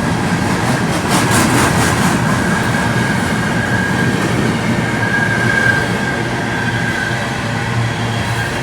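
A train passing close by on the rails: steady rumble and rush of the wheels, a quick run of rail-joint clicks about a second in, and a high, steady wheel squeal that peaks past the middle.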